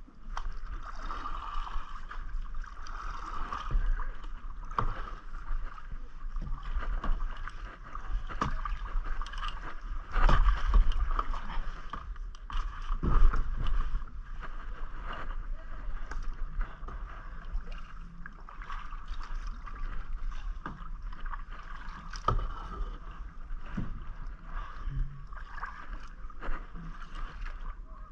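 Kayak being paddled: paddle strokes splashing in the water with scattered knocks, the loudest about ten and thirteen seconds in, over a steady high-pitched drone in the background.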